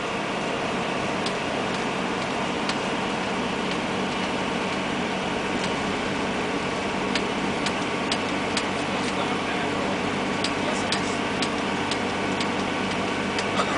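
Steady engine and road noise inside a fire truck's cab while it drives, with scattered light clicks or rattles every second or so.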